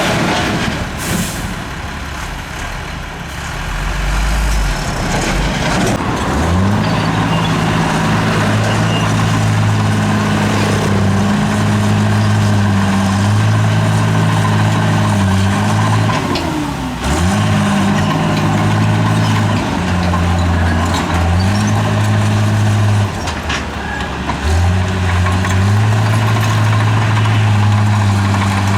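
Heavy diesel engine of earthmoving machinery working under load. Its note grows strong about six seconds in, then its pitch steps up and drops back several times. A short hiss comes about a second in.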